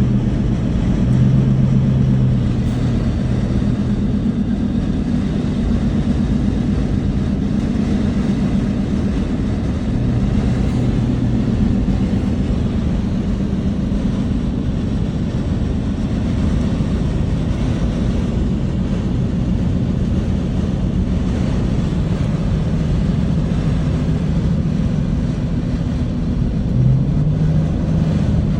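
Motor vehicle driving: a steady engine drone with road and wind noise, and a short rise in engine pitch near the end.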